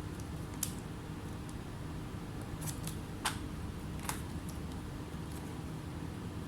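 A few short, sharp clicks of small tools or parts being handled at a laptop repair bench, over a steady low electrical hum.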